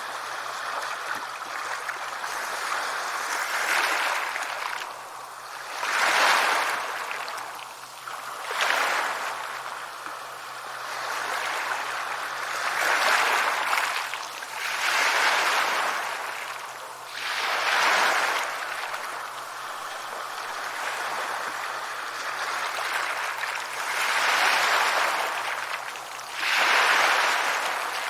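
Sea waves breaking on a shore: a constant rush of surf that swells as each wave crashes, every two to four seconds.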